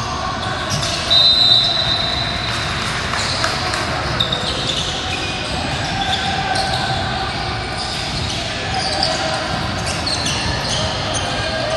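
Basketball game sounds in a large, echoing gym: a ball bouncing on the court, with short high squeaks of sneakers on the hardwood, one louder burst about a second in.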